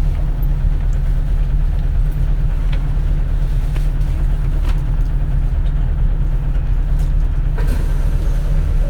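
Compressed-natural-gas engine of a 2004 city bus running steadily, heard from inside the passenger cabin as a constant low drone, with a few light clicks and rattles.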